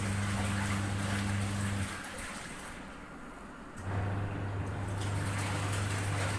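Running water with a steady low electric hum under it; the hum cuts out for about two seconds midway, then starts again.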